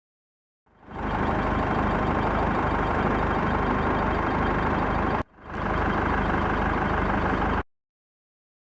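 A large vehicle engine running steadily, heard in two edited pieces: it fades in and runs for about four seconds, is cut off abruptly, then returns for about two more seconds and cuts off again.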